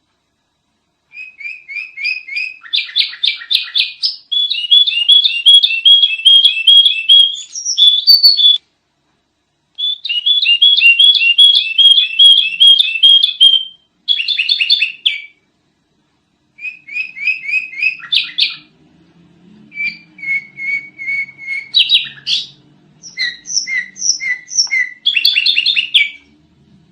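Sooty-headed bulbul (kutilang) singing loudly in bouts of rapid repeated chirping notes, each bout a few seconds long with short pauses between. A faint low hum sits under the second half.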